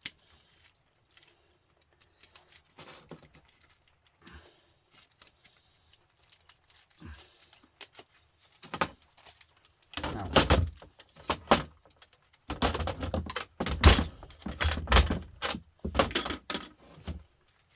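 Thin aluminium fins being worked off the copper tubing of a humidifier's radiator coil with pliers: scattered light metallic clicks at first, then from about ten seconds in a run of louder metallic rattling, clattering and scraping as pieces are pulled away.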